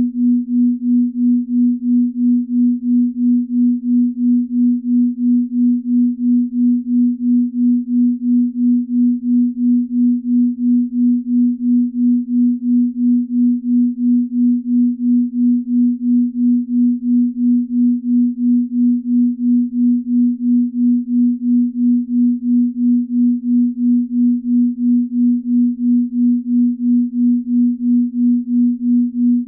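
Binaural-beat tone: a steady low pure tone that throbs evenly about twice a second, the beat between two slightly detuned tones.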